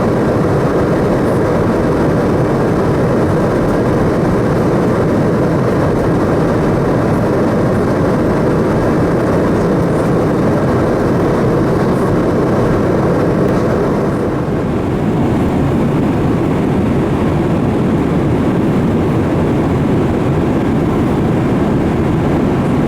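Steady jet engine and airflow noise heard inside the cabin of a Boeing 787-8 with GE GEnx-1B engines, a dense low rumble with a softer hiss above it.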